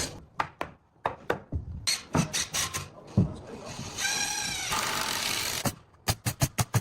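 Hammer knocks on wood, a string of separate sharp strikes, then about 4 s in a brief power-tool whine and about a second of hiss. A quick run of rapid taps follows near the end.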